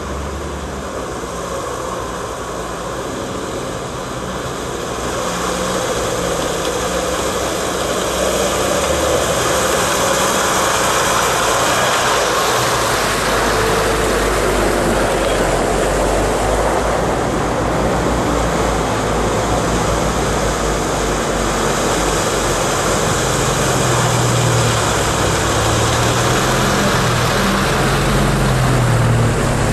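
UAZ-469 off-roader's four-cylinder engine running as the vehicle drives, growing louder about five seconds in and then holding steady.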